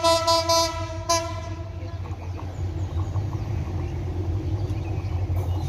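Freight train's horn sounding two blasts, a longer one and then a short one about a second in, over the steady low rumble of the train running.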